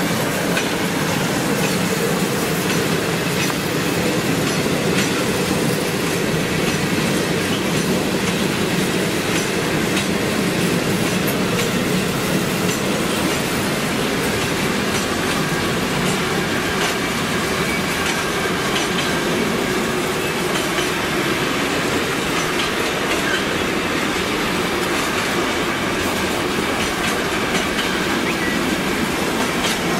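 Freight train of container wagons rolling steadily past at close range, the wheels clacking over the rail joints.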